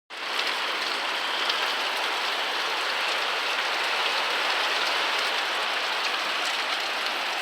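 Rain falling steadily, an even hiss of drops with small ticks of individual drops throughout.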